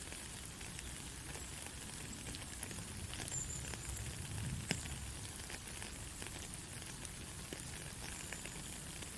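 Steady rain falling, with a hiss and sharp ticks of single drops. A low rumble swells and fades about halfway through.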